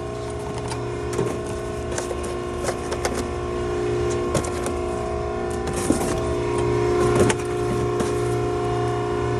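Maren cardboard baler's hydraulic power unit running with a steady multi-tone hum, with scattered sharp clicks and knocks over it.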